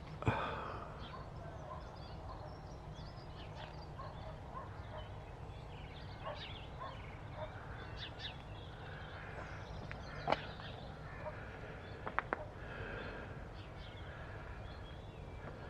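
Birds chirping in the background over a steady low rumble, with a few sharp knocks: the loudest just after the start, then one about ten seconds in and a quick pair about twelve seconds in.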